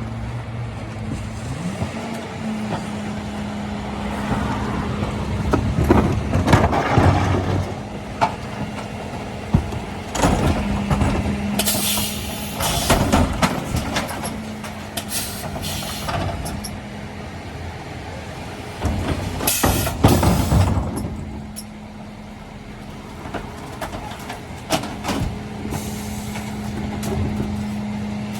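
Mercedes Econic refuse truck working a bin round: a steady engine and hydraulic hum, with repeated bangs and clatter as wheelie bins are lifted and tipped. Twice, about 12 and 20 seconds in, there is a loud burst of hissing air.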